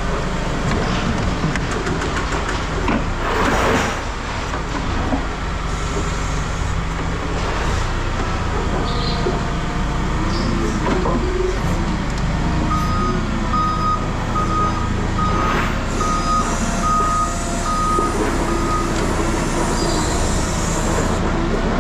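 A heavy vehicle's engine runs steadily. In the second half its reversing alarm beeps evenly, about nine beeps over six seconds, as it backs up.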